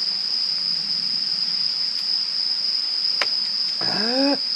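Crickets singing: a steady, high-pitched insect trill that never breaks. A brief voice sound from a person cuts in about four seconds in.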